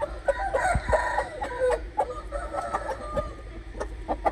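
A rooster crowing once, a call of about a second and a half starting just after the beginning, with short clucks and clicks around it.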